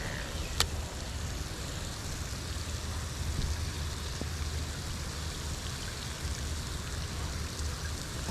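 Steady rush of falling water, with one sharp click about half a second in.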